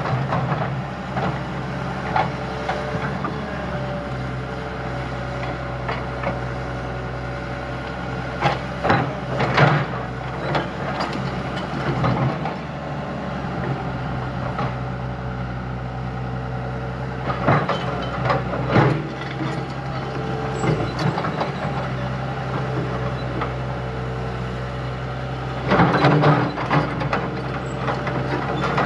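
Diesel engine of heavy earthmoving machinery running steadily, with clusters of knocks and clanks about every eight or nine seconds.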